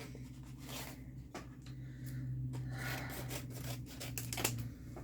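Hands handling and opening the packaging of a diamond painting toolkit: rubbing and scraping with scattered light clicks.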